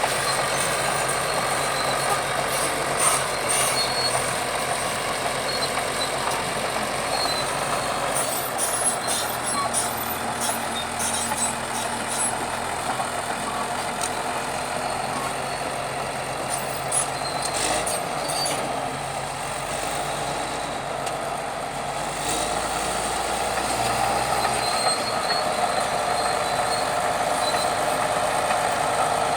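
Bulldozer's diesel engine running steadily, with scattered sharp metallic knocks and clanks, several of them clustered about a third of the way through and again just past the middle.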